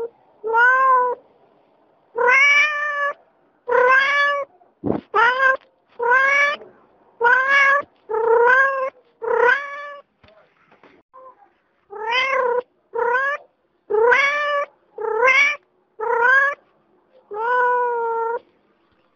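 Domestic cat meowing over and over: about fourteen short meows roughly a second apart, with a pause of about two seconds in the middle.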